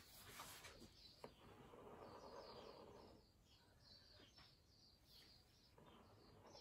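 Near silence: faint bird chirping in the background, with a soft rush of noise lasting about a second and a half, starting about one and a half seconds in.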